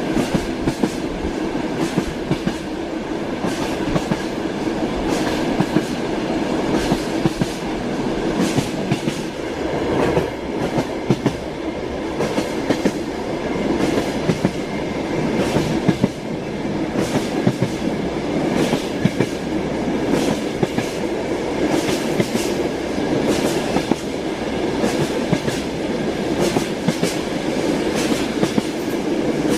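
Moving train's wheels clattering over the rails, heard from inside the passenger carriage: a steady rumble with sharp clicks every second or so.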